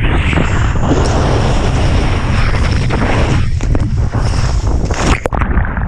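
Strong wind buffeting an action-camera microphone over rushing water while kitesurfing in rough surf, with a few sharp splashes about five seconds in.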